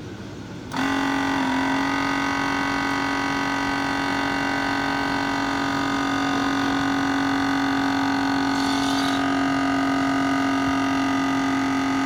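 12-volt air compressor switching on just under a second in and then running steadily with a strong, even hum, building pressure slowly.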